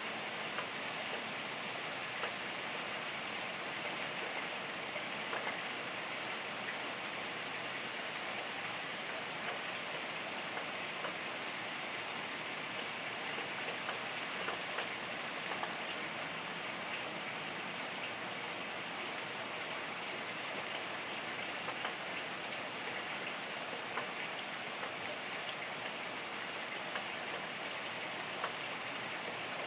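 Steady rainfall: an even hiss of rain with scattered sharp ticks of single drops striking nearby.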